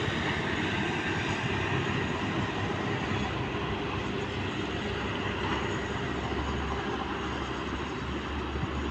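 Steady road traffic noise: the low rumble of vehicle engines and tyres going by.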